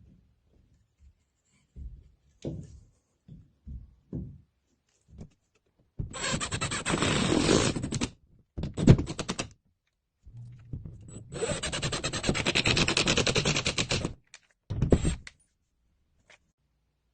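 A hand tool rasping against plasterboard in two long bouts of fast, closely repeated strokes, each followed by a short burst, with scattered knocks before them.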